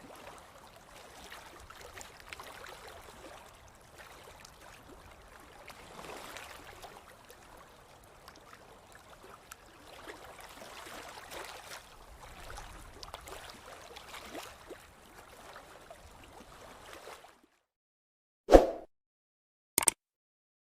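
Gently moving water, faint and noisy, swelling and easing every few seconds. The sound cuts off abruptly near the end, and two loud, short, sharp sounds follow about a second apart.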